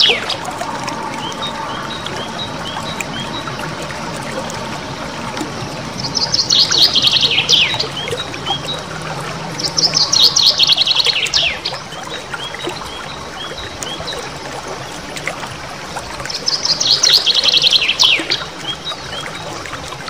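Small songbird singing a tutoring ('masteran') song: three high, rapid rolling trills of about a second and a half each, every one ending in a quick falling note, with short scattered chirps between them.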